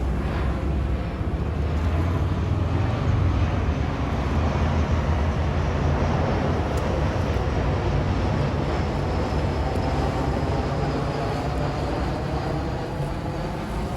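Jet airliner passing low overhead on approach, a steady roar with a deep rumble that peaks a few seconds in, over a faint whine that slowly falls in pitch.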